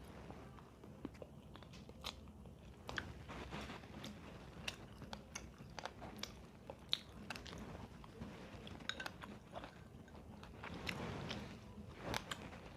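A person chewing and crunching food, with many short crisp crunches scattered throughout.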